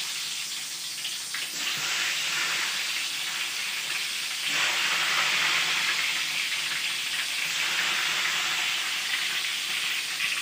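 Small whole bitter gourds sizzling as they deep-fry in hot oil. The sizzle swells about one and a half and again about four and a half seconds in as more pieces are dropped in.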